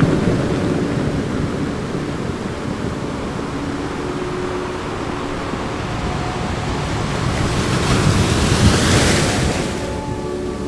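Ocean surf washing steadily, with one wave surging up and breaking between about seven and a half and ten seconds in.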